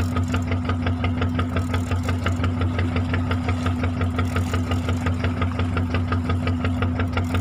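Fishing boat's engine running steadily at slow trolling speed, a low hum with an even beat of about five knocks a second.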